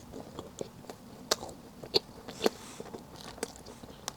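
A person chewing a mouthful of chestnut-filled pastry close to the microphone: soft, irregular mouth clicks and smacks, a few sharper ones between one and two seconds in.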